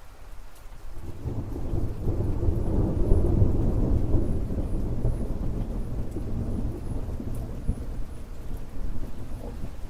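Rain falling steadily while a long roll of thunder swells in about a second in, is loudest a few seconds later, then slowly dies away.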